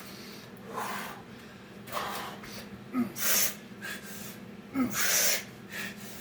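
A man breathing heavily and forcefully from exertion during a set of Navy SEAL burpees: about five sharp breaths, a second or so apart, a couple of them with a short voiced catch.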